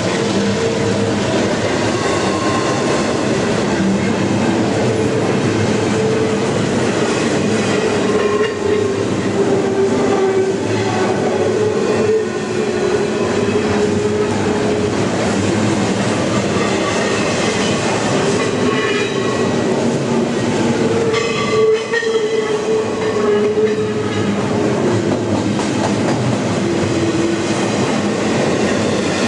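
CSX freight train passing: its mid-train distributed-power diesel locomotives and double-stack container cars roll by. The wheels on the rail make a steady, loud rolling noise, with a tone that wavers in pitch throughout.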